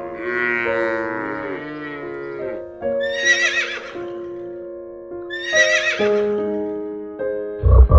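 Horse whinnying twice, shrill and shaky in pitch, about three seconds in and again near six seconds, over background piano music. A long animal call with bending pitch fills the first two seconds.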